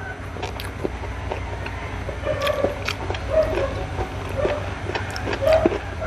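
Close-miked eating by hand: wet chewing and lip-smacking clicks, with a few short pitched mouth sounds about two seconds in and again near the end, over a steady low hum.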